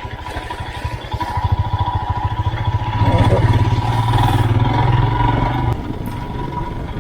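Royal Enfield Himalayan's 411 cc single-cylinder engine running as the motorcycle is ridden, pulling harder for a few seconds in the middle before easing off again near the end.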